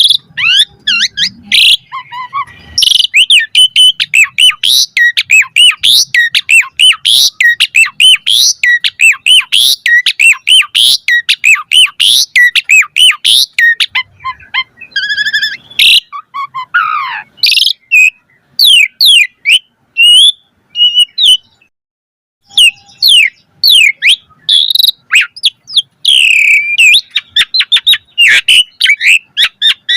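Asian pied starling singing a long, varied song of loud whistles and chirps, with a fast run of repeated sweeping notes several a second through the first half and more varied phrases after a brief pause about two-thirds of the way through.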